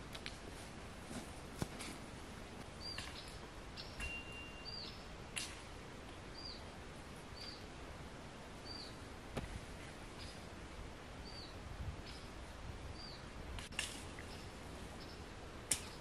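A small bird calling a short, high chirp over and over, about once a second, against a quiet outdoor hiss. A few sharp clicks stand out, the loudest near the end.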